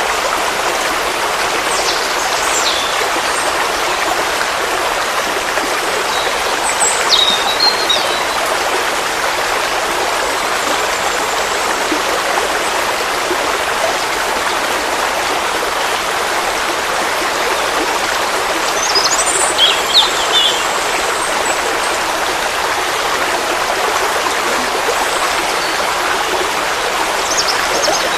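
Forest stream flowing steadily, an even rush of water. A few short bird chirps come through at intervals: about two seconds in, around seven seconds, around twenty seconds and near the end.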